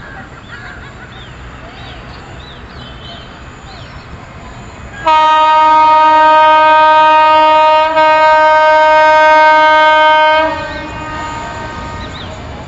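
Indian Railways locomotive horn sounding one long blast of about five seconds, starting about five seconds in, with a momentary dip partway through, over a low rumble.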